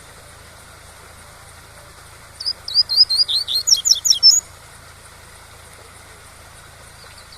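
Coleiro (double-collared seedeater) singing one fast 'tui-tui' phrase of about a dozen quick whistled notes, lasting about two seconds and starting a couple of seconds in, over a steady rush of waterfall noise.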